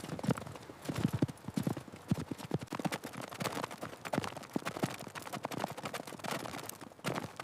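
Horse's hooves clopping, many irregular hoof strikes in quick succession.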